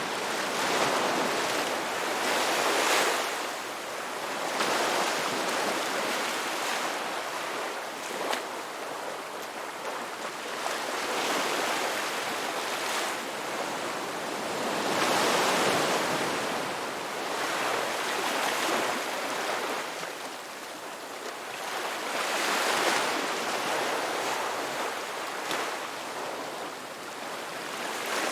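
Ocean surf on a beach: a steady hiss of breaking and washing waves that swells and eases every two to three seconds.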